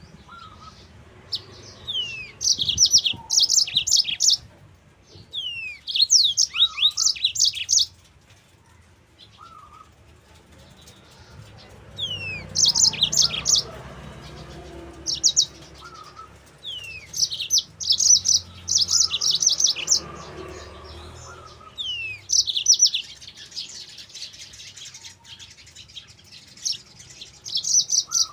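Yellow-fronted (Mozambique) canary singing in short, repeated phrases. Each phrase opens with a falling whistled note and runs into quick, high trills, with pauses of a second or more between phrases.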